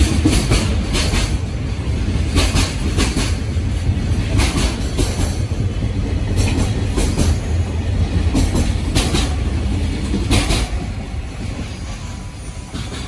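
JR Freight container train passing close by: a steady low rumble with the wagons' wheels clacking over the rail joints in a repeating rhythm, often in pairs. The rumble fades away near the end as the last wagon passes.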